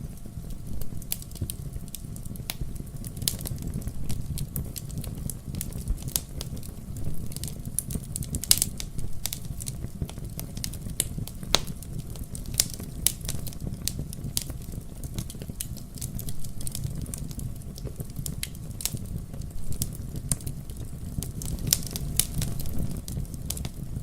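Wood fire burning in a fireplace: frequent irregular crackles and pops over a low, steady rumble.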